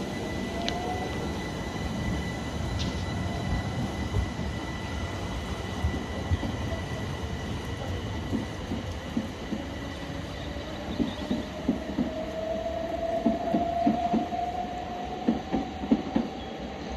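Southeastern electric multiple unit running on the line, with a rising whine and wheels clattering over rail joints in a rhythm that grows louder over the second half.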